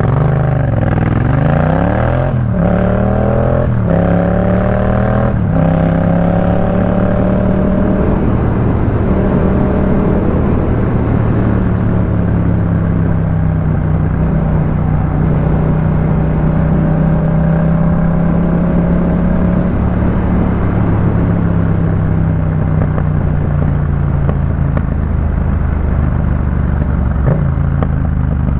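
Yamaha MT-07's 689 cc parallel-twin engine through a Jeskap K4 full aftermarket exhaust, accelerating with the revs rising. It shifts up three times in quick succession in the first six seconds or so, then settles into a steady cruise at an even engine note.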